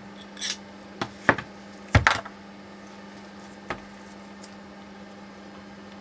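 A handful of sharp clicks and knocks, like hard parts being handled, loudest as a pair about two seconds in, over a steady low hum.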